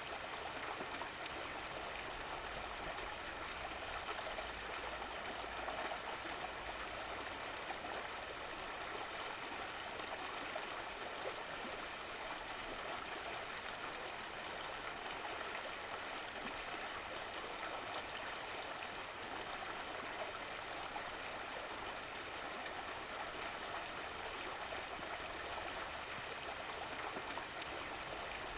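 Running water from a stream, a steady rushing and trickling.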